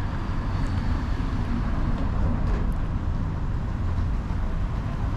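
Steady street traffic noise, vehicles running past, with no single event standing out.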